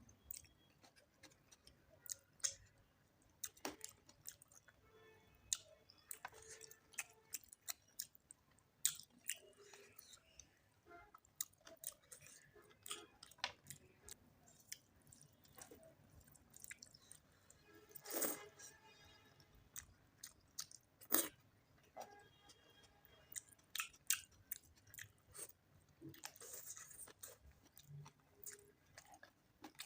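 Close-miked eating of chicken curry with rice: wet chewing and lip smacks with many irregular sharp clicks, and a few crunchier bites.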